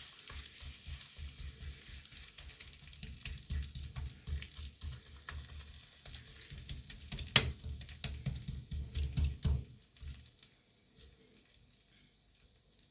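Cabbage pancake batter sizzling in a hot frying pan while it is spread out with a spoon, with repeated knocks and scrapes against the pan and one sharp clack about seven seconds in. After about ten seconds the knocking stops and only a quieter frying sizzle is left.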